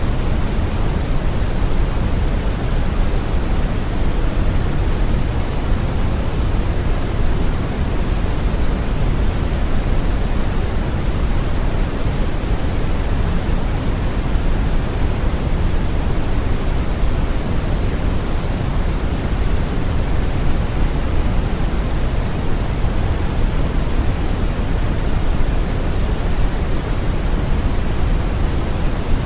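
Steady brown noise: an even, deep rushing hiss with most of its energy in the low end, unchanging throughout.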